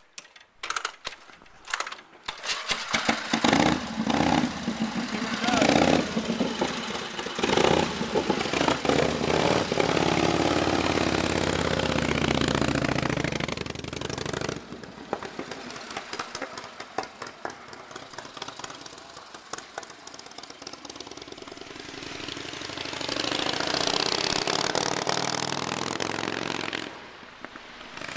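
1929 Harley-Davidson JDH two-cam F-head V-twin, on a homemade stepped exhaust, kick-started and catching about two seconds in. It then runs and is revved unevenly, drops lower for a stretch, and rises again before falling off near the end.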